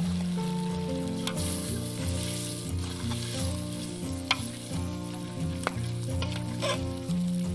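Food sizzling as it fries in a pot while it is stirred, with a few sharp clicks. Instrumental background music with stepping bass notes runs underneath.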